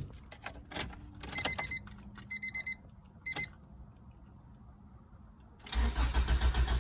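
Keys clicking in the ignition and a few short electronic warning-chime beeps. About two thirds of the way in, the starter begins cranking a Honda B18C1 engine in an even, pulsing rhythm, and the engine does not catch: a crank-no-start.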